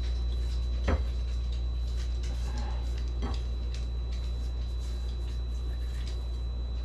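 A few light knocks and clicks, the clearest about a second in and another about three seconds in, over a steady low hum.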